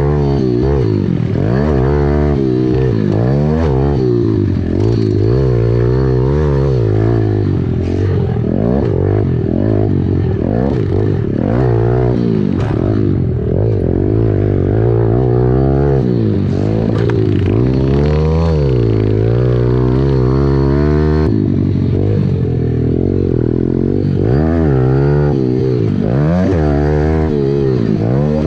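Dirt bike engine being ridden, revving up and dropping back over and over as the throttle opens and closes and the rider shifts gears.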